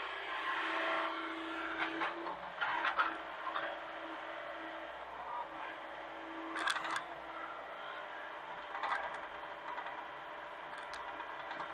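Hitachi mini excavator running steadily, with a few sharp clanks and knocks from its work scattered through, the loudest about three seconds in and near the middle.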